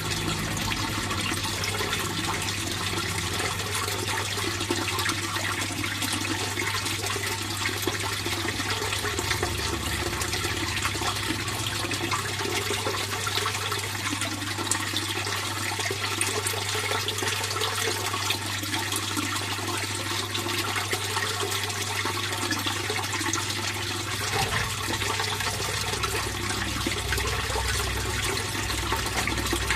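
Fish-pond water flowing steadily, an unbroken rush of running water with a steady low hum underneath.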